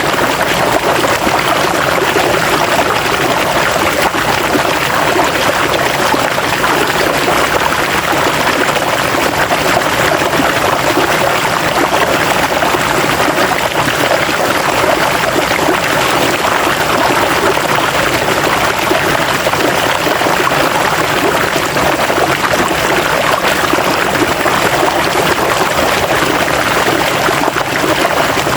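River water flowing and splashing over rocks, a steady rushing with no let-up.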